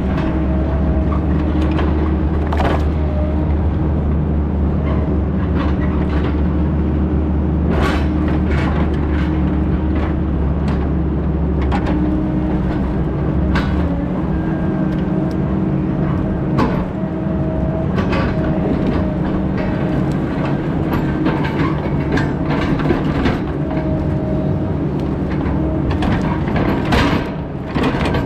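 Heavy logging machine's engine running steadily under work, with repeated sharp cracks and snaps over it. The deep low rumble eases about halfway through.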